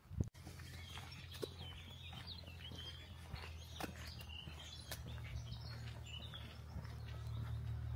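Small birds chirping with short, quick calls over a steady low rumble.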